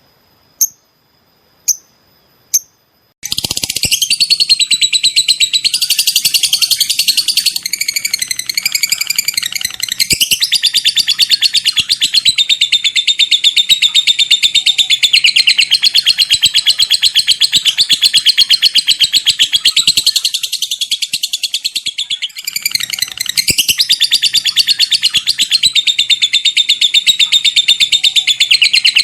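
Lovebird giving a few single chirps, then from about three seconds in a long, unbroken ngekek: a fast, high, chattering trill that falters briefly around twenty seconds in.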